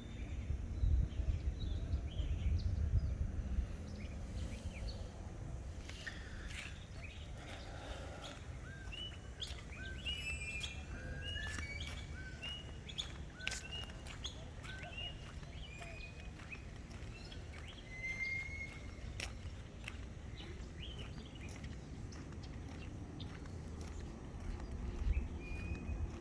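Birds chirping outdoors: many short, quick upward-hooked notes, thickest through the middle stretch, over a steady low rumble that is heaviest in the first few seconds.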